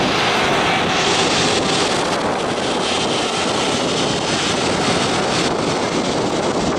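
Jet airliner engines running during taxi, a steady rushing noise that grows brighter about a second in and eases back near the end.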